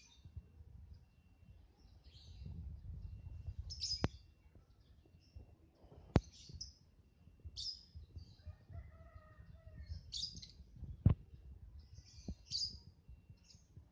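Lovebirds giving short, shrill high chirps every second or two. A few sharp knocks cut through, the loudest about eleven seconds in.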